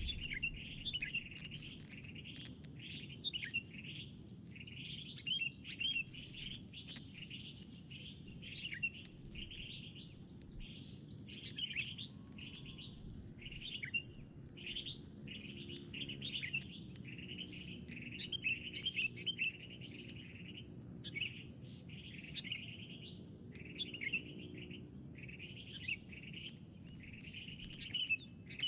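Birds chirping in short, quick calls, repeated without a break.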